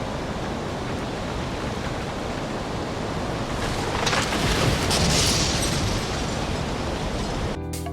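Strong wind gusting over the microphone: a steady rushing noise that swells into a louder, hissing surge about four to five seconds in.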